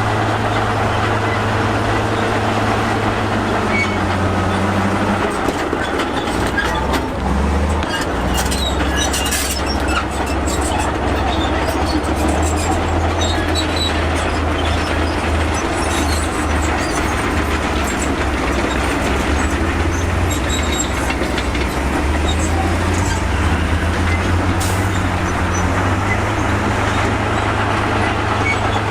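Crawler bulldozer's diesel engine running steadily under load, its note shifting several seconds in, with its steel tracks clanking and squealing. A cluster of clanks and rattles comes about eight to eleven seconds in.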